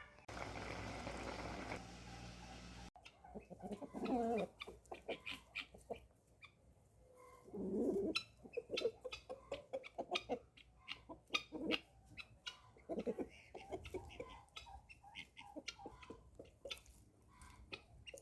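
Chickens clucking: many short sharp clucks with a couple of longer drawn-out calls about four and eight seconds in, after a brief stretch of steady noise at the start.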